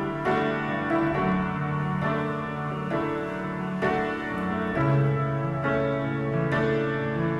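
Instrumental piano music playing slow, held chords that change about once a second.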